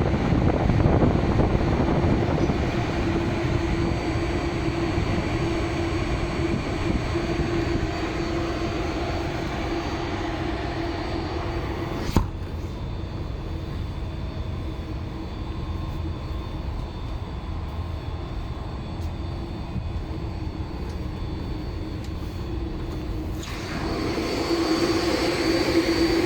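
Air handling unit's fan and motor running with a steady drone and hum. A click about halfway through is followed by a duller, quieter stretch, and the sound grows louder again near the end.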